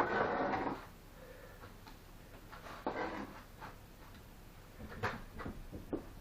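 Short scrapes and knocks of bricklaying with clay mortar: a longer scrape at the start, another about three seconds in, and several sharp clicks and taps near the end.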